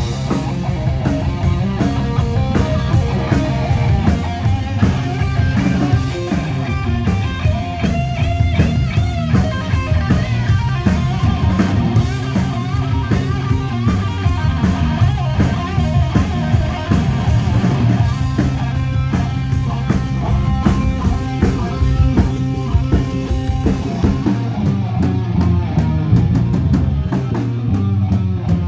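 Rock band playing an instrumental stretch of a heavy rock song: electric guitar over drums and a steady low bass line.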